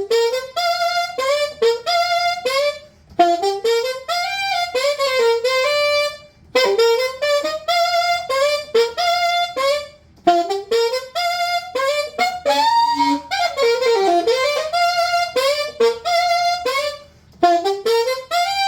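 Rivera SuperBell20 saxophone played solo and unaccompanied, a flowing melodic line of connected notes broken into phrases by brief breath pauses.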